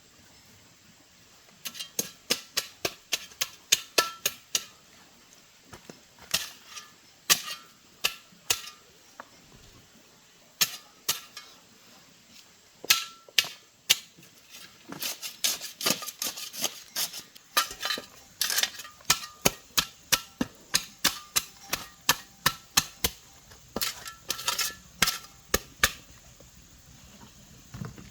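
Many sharp taps and clicks from small hand tools at work on a repair, irregular and often in quick runs of several a second, some with a faint short metallic ring; they begin about a second and a half in.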